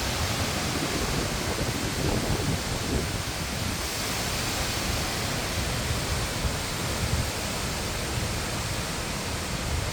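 Tropical-storm wind roaring in a steady rush, with low rumbling from gusts buffeting the microphone.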